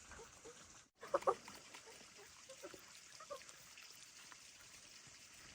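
A few brief, high animal squeaks a little after one second in, with fainter ones around the middle, over quiet background.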